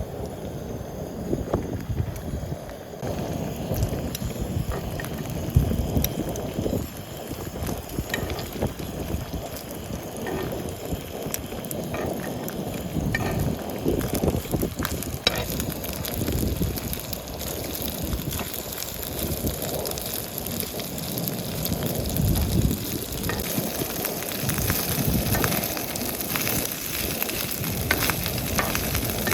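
Pork jowl and kimchi sizzling in a pan on a camp grill, with scattered clicks and taps throughout; the sizzling hiss grows louder in the last few seconds.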